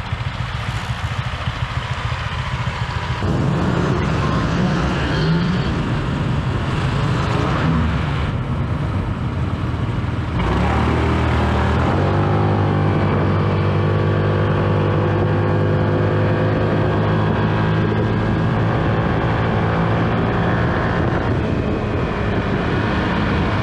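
Motorbike running along a road with a rushing noise. About ten seconds in the engine climbs in pitch, then holds a steady drone.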